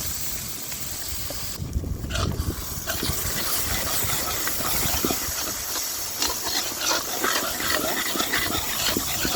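Coconut milk sizzling in a hot pan of oil, onions and spices: a steady hiss, with crackling pops growing denser a few seconds in.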